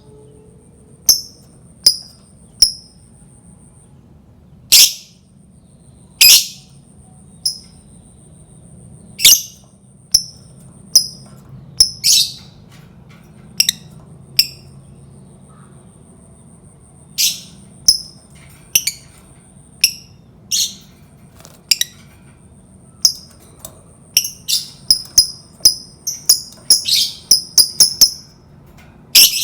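Lovebird giving sharp, shrill single calls at irregular intervals, coming quicker in a rapid run near the end. A faint, high, fast ticking trill runs underneath in long stretches.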